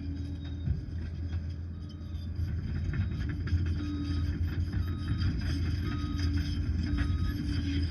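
Liebherr PR 746 crawler dozer's diesel engine running steadily, with sharp knocks from the machine. From about four seconds in, an alarm beeps about once a second.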